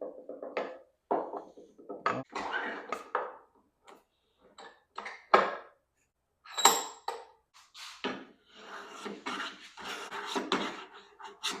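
Metal parts being handled and set down: a series of short clinks and knocks, one of them ringing briefly about two-thirds of the way in. Near the end comes a longer rasping rub, like a part being filed or sanded.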